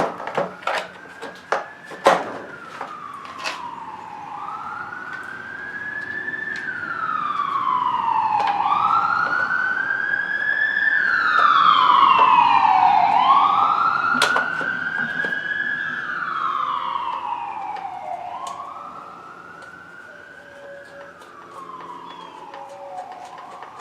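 Emergency vehicle siren wailing, its pitch slowly rising and falling about every four seconds, growing louder toward the middle and then fading as it passes by. A few sharp clicks and knocks in the first few seconds.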